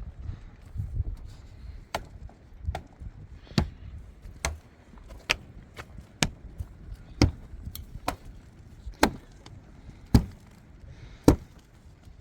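Steady chopping: a hand tool struck down about once a second, about eleven sharp blows in a row.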